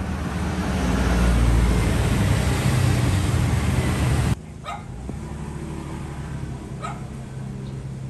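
A loud, rushing noise that cuts off suddenly a little over four seconds in, followed by two short, sharp bird calls about two seconds apart.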